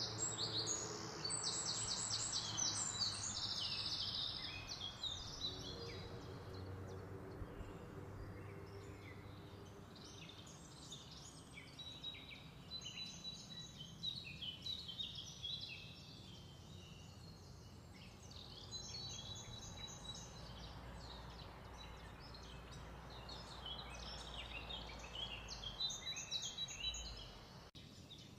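Small birds chirping and trilling over and over, loudest in the first few seconds and then in patches, over a steady background hiss.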